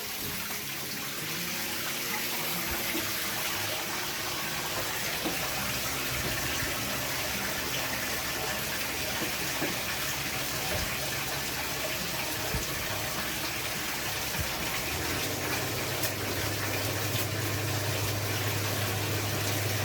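Water running steadily from an open tap, drawing water through a newly installed tankless water heater to test it. A low steady hum comes in about three-quarters of the way through.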